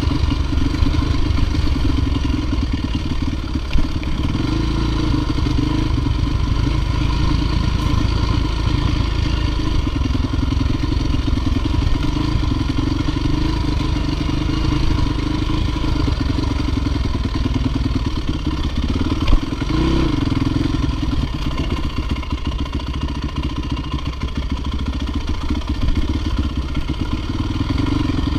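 Dirt bike engine running steadily under load, with rattling and a few short knocks, one sharp knock about two-thirds of the way through.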